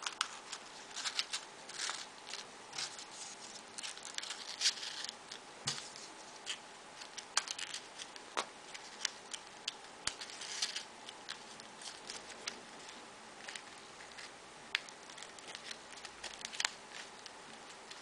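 Folded paper units of modular 3D origami being handled and pushed into one another: irregular light paper rustles and many short, sharp clicks.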